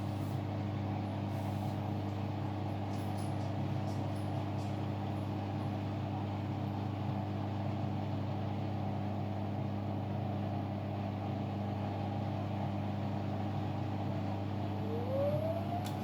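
Hoover Sudslock washing machine running with a steady motor hum. About a second before the end, a whine starts to rise in pitch as the machine speeds up.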